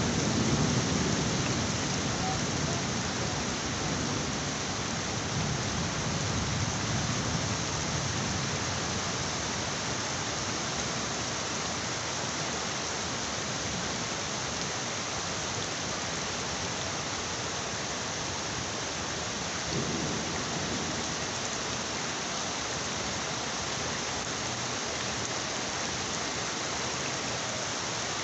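Heavy rain falling steadily in a thunderstorm, with thunder rumbling low for the first several seconds and dying away, and a short, fainter rumble about twenty seconds in.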